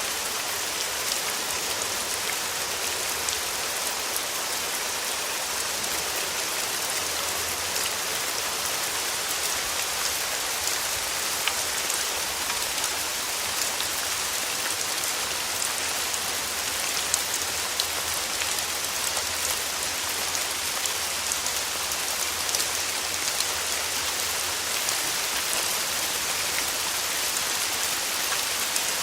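Steady summer rain falling, a dense even hiss with many individual drops pattering sharply over it.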